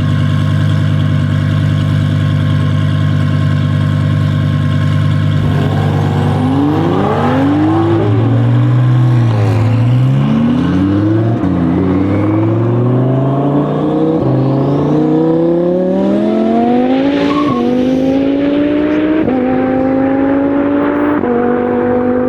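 Twin-turbo Audi R8 V10 engine holding a steady note, then about six seconds in going to full throttle. The revs swing up and down at first, then climb through a run of upshifts, each one a sudden drop in pitch.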